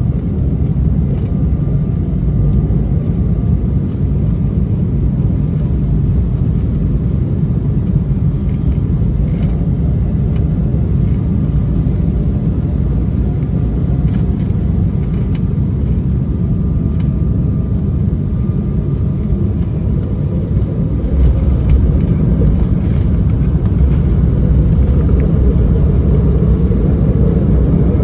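Cabin noise inside an Embraer E190 airliner on the ground after landing: a steady low rumble of the GE CF34 turbofan engines and the wheels rolling, growing somewhat louder about three-quarters of the way through.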